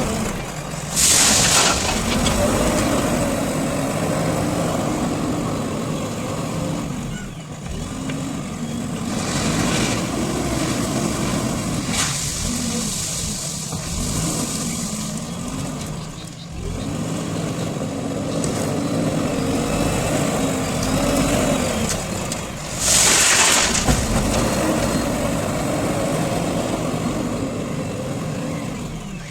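Diesel engine of a JCB 3DX backhoe loader running under load, its pitch rising and falling as the machine works. Two short, loud hissing bursts come about a second in and again near the end.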